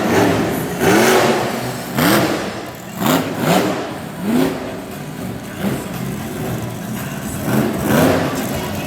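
Monster truck engine revving hard in repeated bursts, each a quick rise in pitch, about once a second, then running more steadily over the last few seconds.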